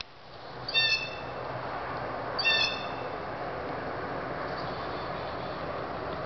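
A bird calls twice, two short, high, nasal-sounding notes about a second and a half apart, over a steady background hiss.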